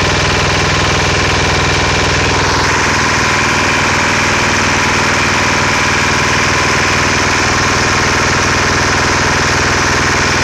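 Hatz diesel engine running steadily with a fast, even pulsing beat. Its sound changes about three seconds in, becoming brighter with less low rumble.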